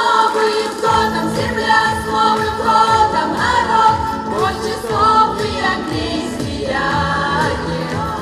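A song sung by several voices together over an instrumental accompaniment with a steady beat.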